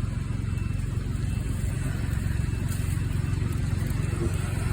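Steady low engine rumble running evenly, with no change in pitch.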